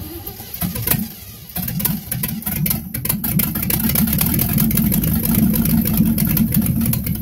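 A 305 cubic-inch small-block Chevrolet V8 starts up for the first time after sitting unrun for a couple of years. It turns over unevenly for about a second and a half, then catches and runs loudly.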